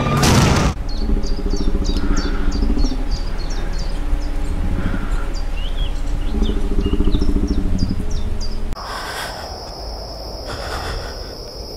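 A short, loud rushing blast, then many birds chirping over a low, rattling buzz that comes and goes in three stretches. Near the end the sound drops suddenly to a steady high trill like crickets at night.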